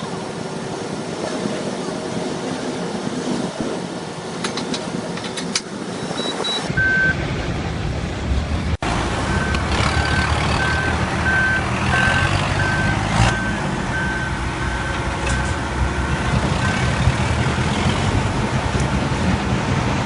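Heavy diesel machinery running with a deep rumble, while a vehicle's reversing alarm beeps about twice a second for several seconds before it stops. Before that, lighter knocks and clatter.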